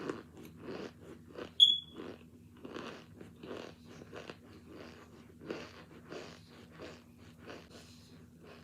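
Crunchy chewing of hard cornstarch chunks, short crunches about two a second. A single sharp, high-pitched click stands out about a second and a half in.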